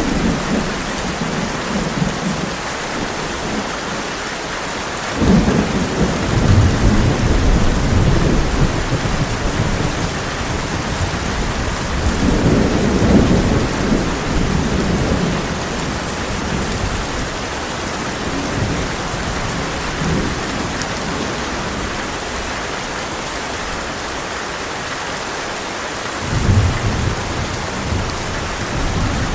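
Heavy rain drumming steadily on a tin roof, with rolling thunder rumbling through it several times: a long rumble about five seconds in, a stronger one around the middle, and a shorter one near the end.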